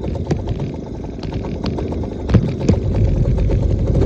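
Dirt bike engine running steadily at low speed, with scattered sharp clicks and rattles over it.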